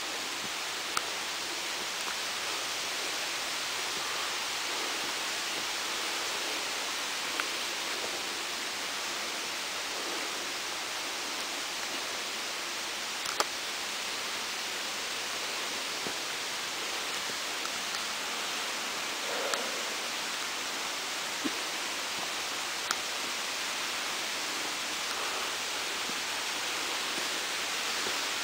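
Waterfall's water rushing steadily, with a few brief clicks here and there.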